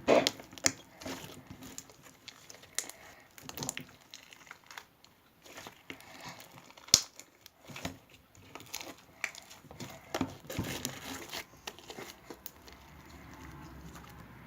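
Slime being mixed and worked, giving irregular sticky clicks, pops and crackles, with one sharp snap about seven seconds in.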